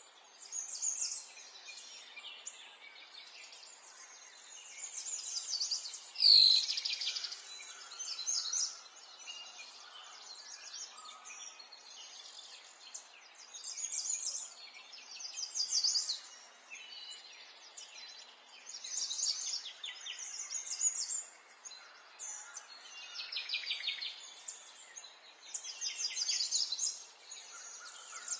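Songbirds singing: short phrases of rapid, high chirps and trills repeat every second or two over a faint steady hiss, with one louder, sharper note a little over six seconds in.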